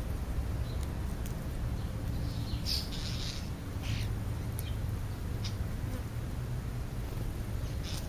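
Birds feeding close to the microphone: a few short, high chirps or pecks, the busiest about three seconds in, over a steady low rumble.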